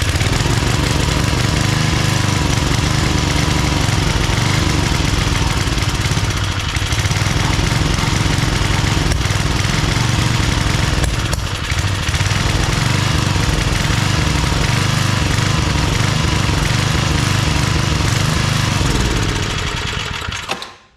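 Old 5 hp Briggs & Stratton single-cylinder engine on a homemade log splitter running loud and rough, its speed wavering a little, then dropping away suddenly near the end. The owner says it is not running well and thinks the governor is overly sensitive.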